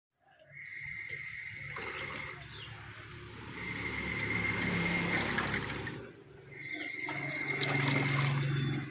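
Single-tub washing machine running a wash: water churning in the tub over a low motor hum, in surges with a short lull about six seconds in.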